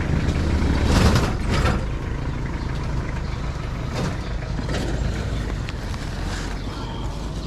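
Motor vehicle engine and road noise: a steady low rumble, with several short hissing swells, the loudest about a second in.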